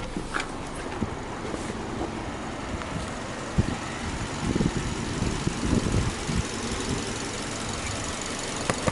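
Subaru Legacy 2.5i's EJ25 flat-four engine idling steadily, with a click near the start and a few soft knocks around the middle.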